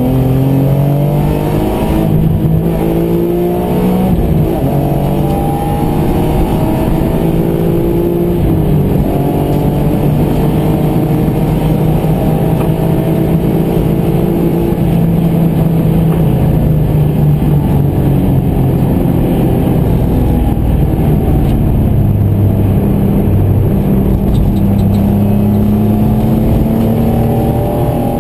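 BMW M3 engine heard from inside the car on track: pulling hard, its pitch rising and falling as the car accelerates, shifts gear and lifts off.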